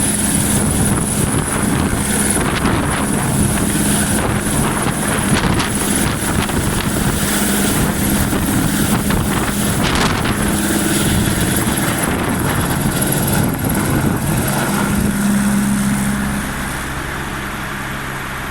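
Helicopter rotor and engine running loudly and steadily, with a high whine over a rough, churning noise. About 16 seconds in the sound drops in level, leaving a steadier low engine hum.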